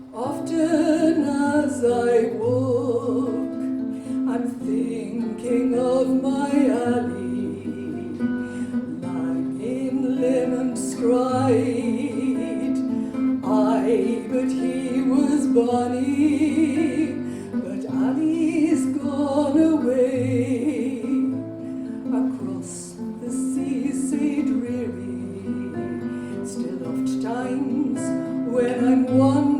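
Live folk song: a woman singing over acoustic guitar.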